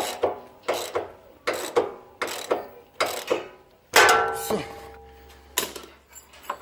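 Socket ratchet wrench tightening the mounting bolts of a steel engine skid plate, with sharp repeated strokes about two or three a second. About four seconds in comes a louder metallic clang that rings for a moment.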